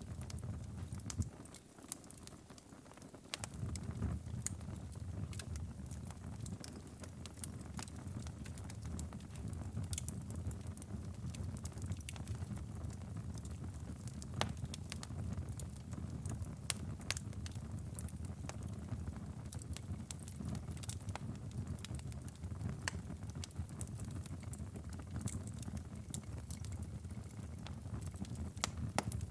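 Wood fire in a fireplace crackling, with frequent sharp pops and snaps over a steady low rumble. The rumble drops away briefly about two seconds in, then returns.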